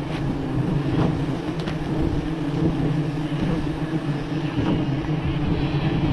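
Swarm of honeybees buzzing around an opened wild nest, a steady droning hum with a few faint ticks.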